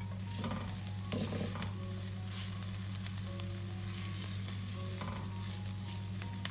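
Food sizzling as it fries in hot oil in a pan, with a couple of stirring knocks about half a second and a second in.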